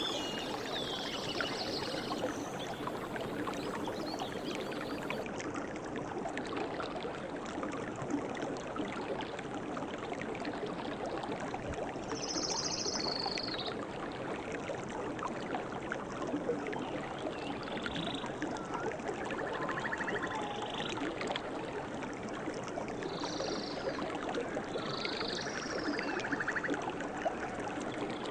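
Stream water running and trickling steadily, with a few short high chirps scattered through it, more of them in the second half.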